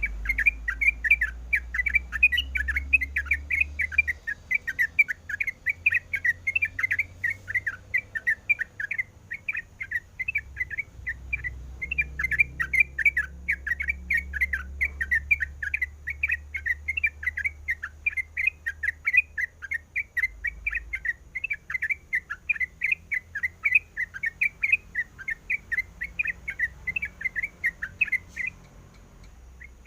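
Yellow-vented bulbul (trucukan) singing a long, fast run of bright chirping notes, several a second, breaking off briefly once and stopping just before the end. A low rumble runs underneath.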